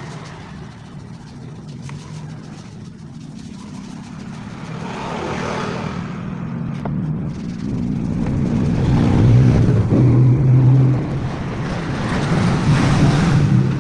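Motor vehicle engine running with road noise, swelling louder about nine seconds in and again near the end.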